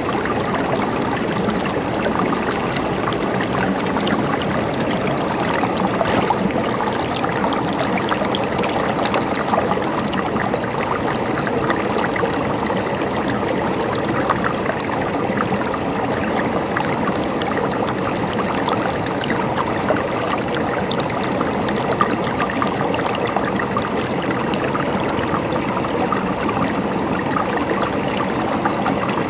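A stream of water trickling and babbling steadily, with many small splashes and drips over an even rush.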